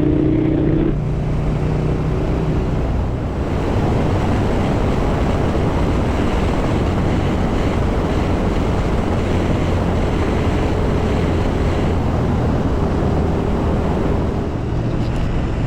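Motorcycle at riding speed: a steady rush of wind over the helmet microphone with the engine's low drone underneath.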